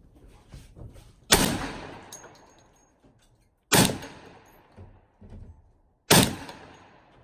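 Three single gunshots fired slowly, about two and a half seconds apart, each followed by a trailing echo.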